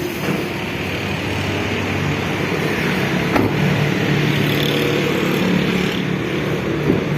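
Car engine running steadily with a low hum under a wash of engine and road noise, with a single sharp click about three and a half seconds in.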